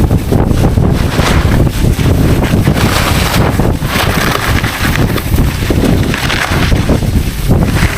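Wind buffeting the microphone at riding speed, with the edges of 99 cm skiboards carving the snow in repeated swishes that swell and fade every second or two.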